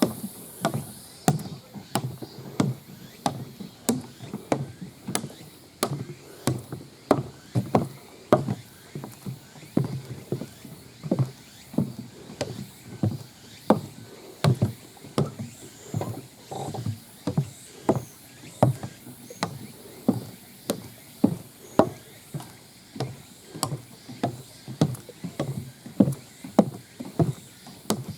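Rhythmic clicking and knocking, about two a second, keeping time with a hiker's steps on a downhill trail: the loose flip-out monitor of an old handheld camcorder clattering against its body with each step, over the footfalls.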